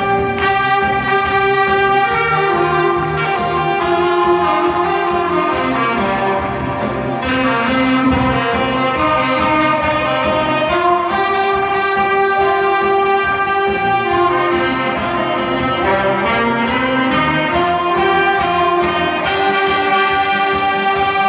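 Saxophone ensemble playing a melody in harmony, with several saxophones holding sustained notes together.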